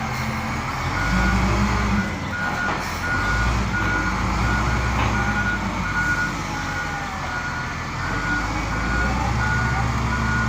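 Bulldozer's diesel engine running with its reversing alarm beeping at an even pace; the engine's rumble swells louder a couple of times as it works.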